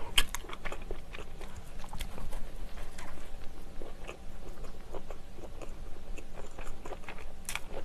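Close-miked chewing of a mouthful of soft onion bread with sausage, with small wet mouth clicks throughout and a sharper click near the end.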